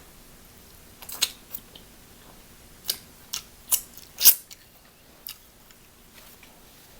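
Crab and lobster shells being cracked and eaten: about six short, crisp cracks and crunches spread over several seconds, the loudest about four seconds in.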